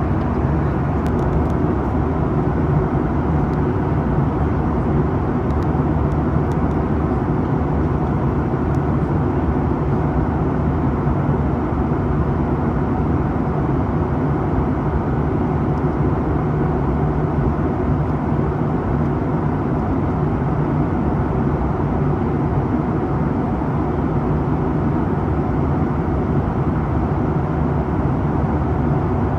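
Steady cabin drone of a Boeing 737-800 in flight, heard from a seat above the CFM56-7B engine: an even rush of engine and airflow noise with a low hum underneath, holding constant throughout.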